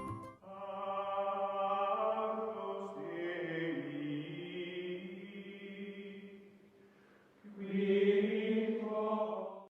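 Music of choir-like chanting on long held notes, in two phrases: the first fades out, the second starts after a short lull about seven and a half seconds in and cuts off abruptly.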